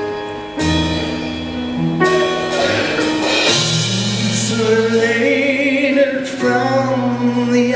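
Several voices singing long held chords in harmony without words, the chord changing every second or two; a high voice with vibrato stands out about five seconds in.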